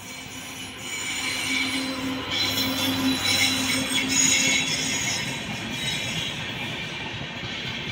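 Electric-locomotive-hauled Indian Railways passenger train passing close by. A steady low hum swells as the locomotive goes past, loudest around two to four seconds in, then the coaches' wheels run by on the rails with a rumble and high-pitched ringing.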